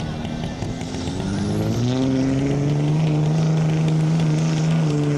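Diesel pickup truck engine climbing in revs over about a second, with a faint rising whine above it, then held steady at high rpm.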